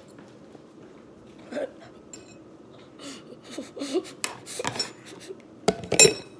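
Cutlery clinking and scraping against a dish while cold noodles are eaten. The clinks are sparse at first, grow busier from about halfway through, and are loudest near the end.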